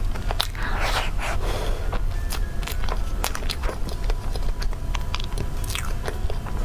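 Someone biting and chewing cake, with many short crisp clicks and crunches, over a steady low hum.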